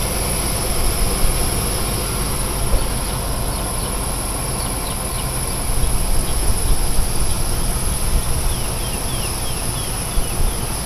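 2004 Chevy Suburban's 5.3-litre LS V8 idling steadily, with a continuous high chorus of insects over it.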